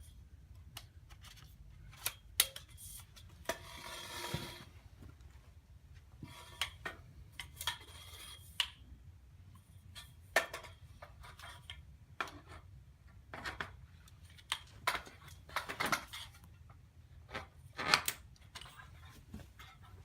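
Metal tube sections of a fabric display-stand frame being pushed together and handled: scattered clicks and clinks, the loudest about two seconds in and near the end, with two short hissy stretches around four and eight seconds in.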